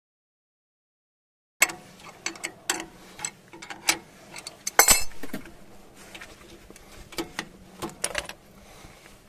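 A wrench tightening the nut on a bushing press tool's threaded rod, giving irregular metallic clicks and knocks, a few a second, with one louder knock about halfway. It is drawing the centre rubber out of a cracked, hardened rear torsion-beam bushing. The first second and a half is silent.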